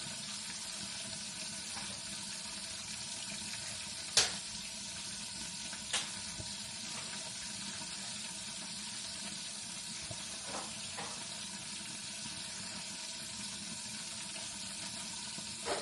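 A pan sizzling steadily on the stove as food fries in hot fat. Two sharp knocks about four and six seconds in, the first the loudest, with a couple of faint ones later.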